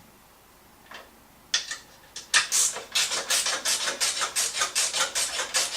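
Hand file rasping on metal in quick back-and-forth strokes, about four a second, starting after a quiet first second and a half.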